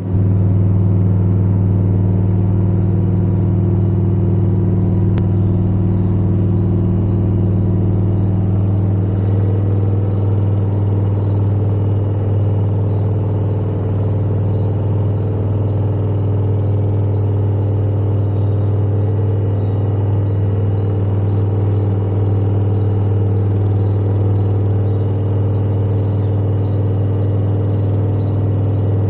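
LG front-load washing machine starting up and running with a steady low hum.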